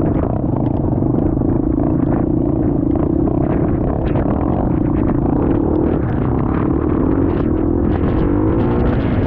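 Enduro motorcycle engine running while riding, with rumbling wind and road noise. The engine note wavers up and down about two-thirds of the way through.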